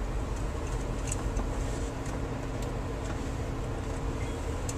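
Steady running rumble of a VIA Rail passenger train, heard from inside a dome car, with a few faint ticks scattered through it.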